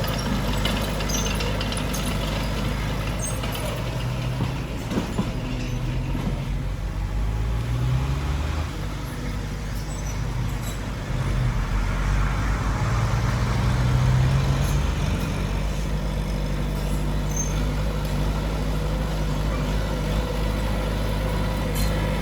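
Heavy diesel engine of earthmoving machinery running steadily, revving up under load around eight seconds in and again, louder, from about twelve to fifteen seconds.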